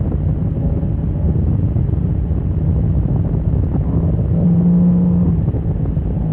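Motorcycle engine running at speed on a race track, with wind noise over the microphone. The note holds fairly steady, with a stronger tone about four and a half seconds in.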